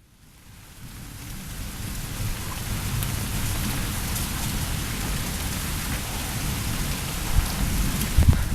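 Steady rain during a thunderstorm, with a low rumble of thunder underneath, fading in over the first couple of seconds.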